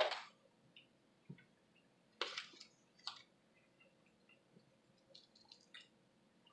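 Mouth sounds of a person eating toast topped with sausage: chewing and lip smacks with scattered small clicks, a louder bite at the start and another about two seconds in.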